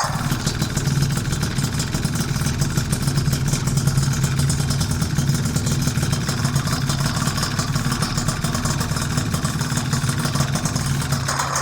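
Two-stroke engine of a Piaggio Zip SP scooter, kitted to 172 cc and fitted with a PM Tuning PM59 expansion exhaust, running at a steady speed with a rapid, even exhaust pulse.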